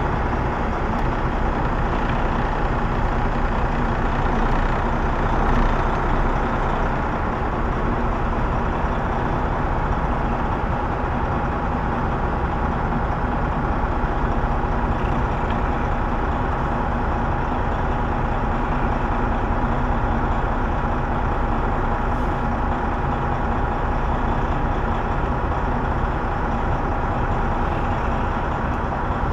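Semi-truck diesel engine running steadily at low speed, with a steady hum and no change over the whole stretch.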